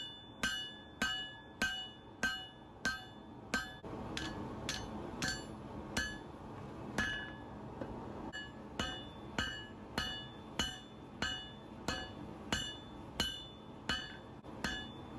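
Hand hammer striking a hot Damascus knife blank on an anvil in a steady rhythm, about one and a half blows a second. Each blow has a short metallic ring from the anvil.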